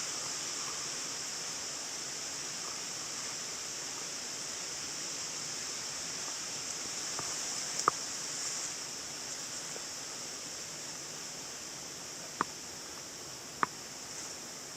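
Steady outdoor background of a flowing small river, with a constant high hiss over it. Three short sharp clicks come through, one about eight seconds in and two close together near the end.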